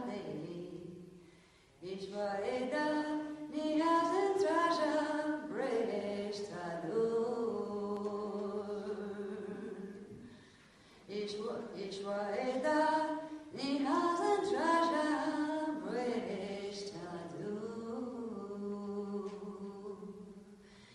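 Unaccompanied voice singing a slow, chant-like melody in two long phrases, with held notes that glide up and down in pitch.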